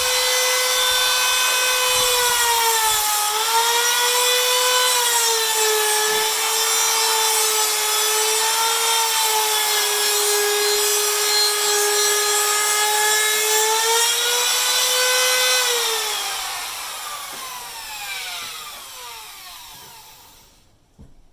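Small electric router fitted with a slot cutter, running at high speed as it cuts a slot for draught stripping in sash window timber; its high whine sags in pitch now and then as the cutter bites. About three quarters of the way through it is switched off and winds down in a long falling whine.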